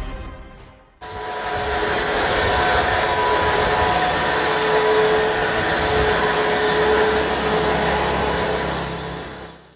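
An electric power tool starts suddenly about a second in and runs at a steady speed with a constant whine over a hiss, then winds down near the end.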